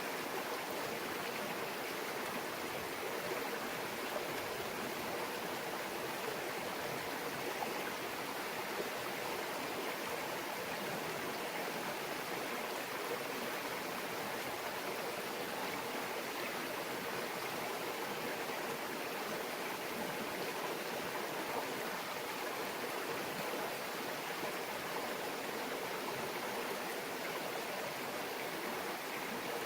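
Small mountain stream babbling steadily over stones, an even rushing and trickling of water.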